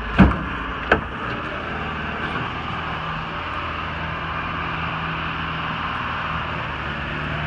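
Two heavy thumps in the first second, then a 2003 International DuraStar 4300 truck's diesel engine running steadily at idle with a constant hum.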